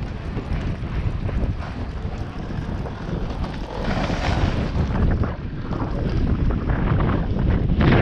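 Wind buffeting the microphone in a loud, steady low rumble, with gusts swelling about four seconds in and again near the end.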